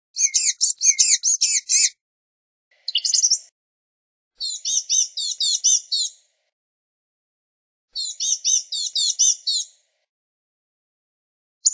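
Blue-gray gnatcatcher singing: bursts of rapid, thin, high notes, each burst about two seconds long, with a shorter burst between the first two and another starting right at the end, separated by a few seconds of silence.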